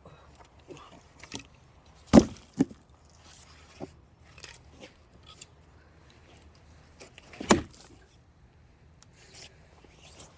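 An axe striking and splitting firewood: a heavy blow about two seconds in, followed quickly by a second knock, then another heavy blow about five seconds later, with smaller knocks of wood in between.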